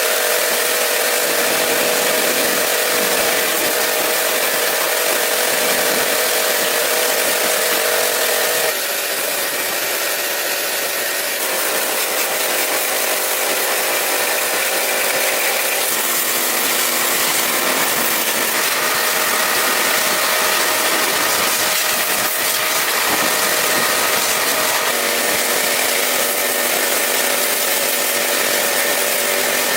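A power tool running steadily, with its sound changing abruptly twice along the way.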